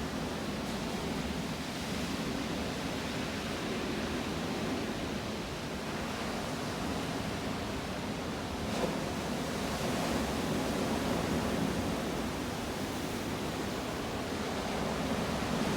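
Black Sea surf washing steadily on the shore, a continuous rushing with no distinct breaks.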